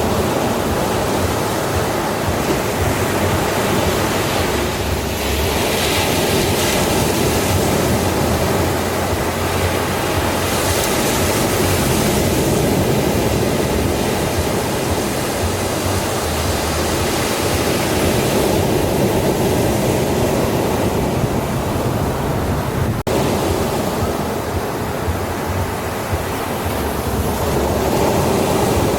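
Ocean surf breaking on a beach: a continuous wash of waves that swells louder every several seconds.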